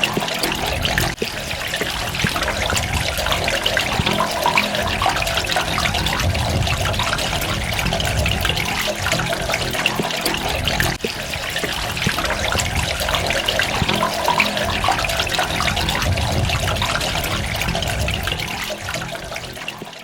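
Water running and splashing steadily, with many small drips and droplets in it; it fades out near the end.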